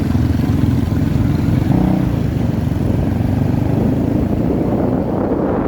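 Motorbike engine running steadily on the move, heard from the pillion seat, with a short tone about two seconds in.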